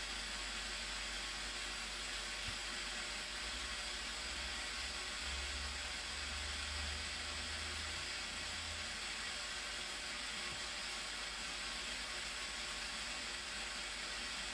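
Steady rushing roar of the Blue Nile Falls' water, an even hiss with no breaks.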